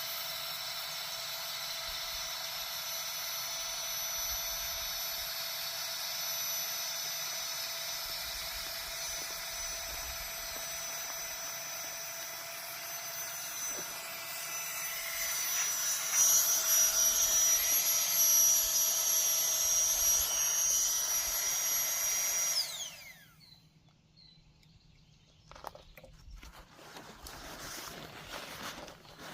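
Small battery-powered air pump running steadily, likely inflating a Klymit Static V sleeping pad, getting louder about halfway through. It is switched off about 23 seconds in, its pitch falling as the motor spins down, and a few faint handling clicks follow.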